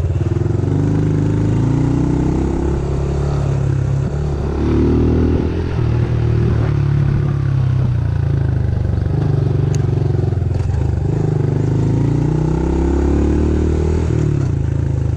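Honda CRF110F dirt bike's small fuel-injected single-cylinder four-stroke engine under way, its revs rising and falling again and again as the throttle is worked.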